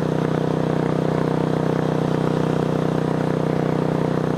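Racing lawn tractor's engine running at a steady, unchanging speed while the tractor is driven.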